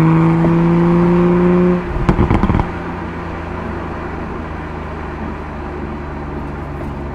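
Toyota Supra's engine and exhaust pulling under acceleration with a steady note that slowly rises in pitch, then a quick run of sharp pops and rattles as the driver comes off the throttle about two seconds in. After that the engine drones on steadily at a lower note.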